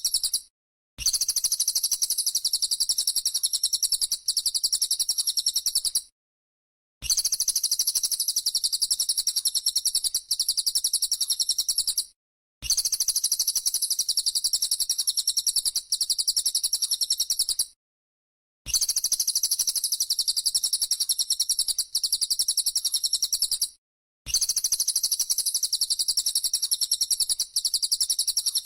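Bird-training (masteran) recording of rapid, high-pitched trilling, played in bursts of about five seconds, each followed by about a second of silence.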